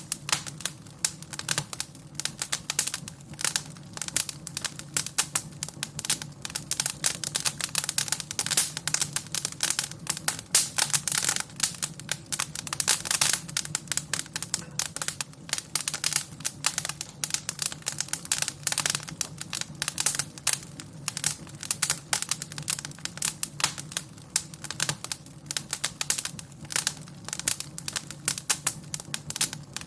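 Wood fire crackling in a fireplace: a dense run of irregular sharp pops and snaps over a steady low rumble of the flames.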